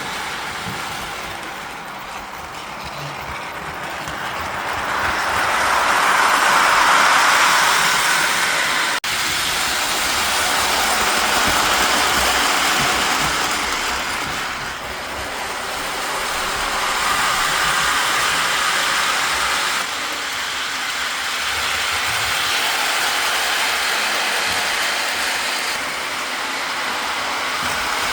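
Lionel model train running on its track loop, a steady mechanical whirring and rolling rattle that grows louder and fades again each time it passes, about every five seconds.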